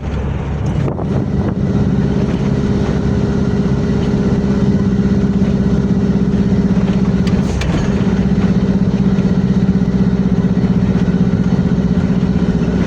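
Isuzu FRR90 truck's diesel engine idling steadily, with an even pulsing note.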